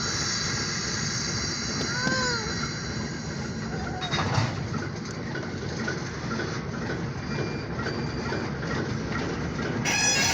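Short freight train of ethanol tank cars rolling slowly, a steady rumble. Near the end a high squeal of wheels on the rails sets in.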